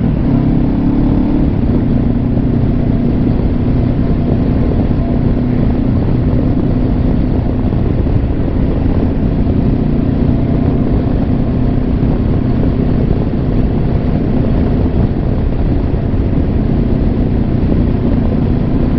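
Honda CB500X's parallel-twin engine running at a steady cruise, heard from inside the rider's helmet under a steady rush of wind and road noise.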